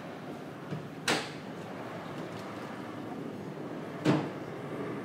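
Two short knocks, about a second in and again about four seconds in, over a faint steady hum.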